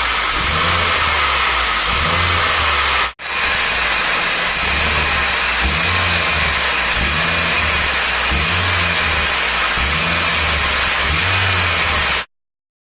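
Mitsubishi Outlander Sport's engine running, heard close up as a loud, steady rush with a faint high steady tone over it. The sound breaks off for an instant about three seconds in, then runs on until it cuts off suddenly near the end.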